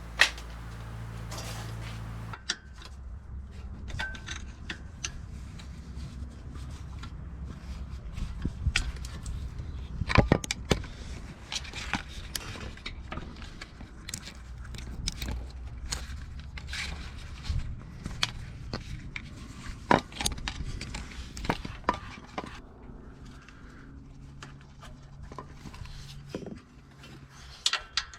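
Scattered clicks, taps and light scrapes of hand work with small tools and containers while old brake fluid is drained from the reservoir, with a few sharper knocks. A low hum stops about two seconds in.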